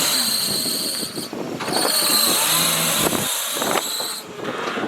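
Off-road 4x4 engine running with a high steady whine over it. The whine drops out briefly about a second in and again near the end.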